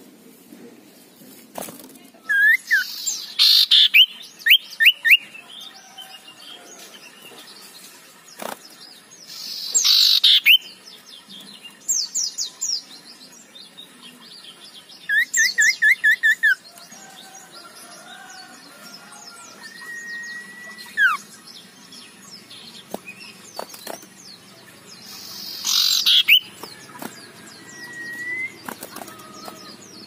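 Male common iora calling: three harsh rasping calls, each about a second long, mixed with quick runs of five or six sharp chattering notes and a few short whistles.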